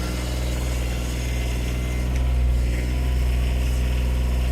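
Farm tractor engine running steadily, briefly a little louder a bit after two seconds in.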